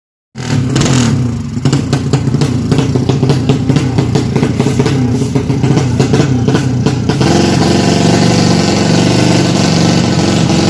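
A drag-racing motorcycle engine running, with many sharp crackles from about one and a half to seven seconds in, then settling to a steadier run.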